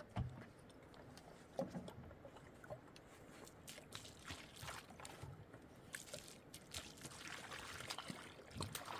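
Faint water sloshing and trickling, with scattered small knocks and clicks.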